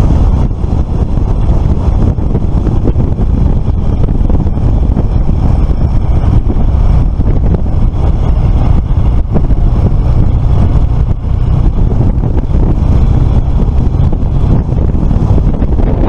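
Suzuki FL125 Address 125 cc scooter riding at a steady road speed: a continuous low rumble of engine and road noise, heavily buffeted by wind on the microphone.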